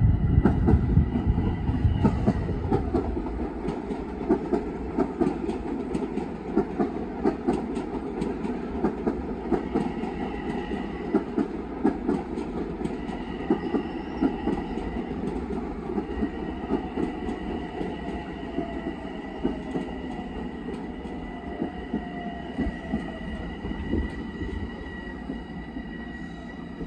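Long Island Rail Road electric multiple-unit train passing, its wheels clicking rapidly over the rail joints beneath a steady high whine. The sound is loudest at first and fades slowly as the train draws away.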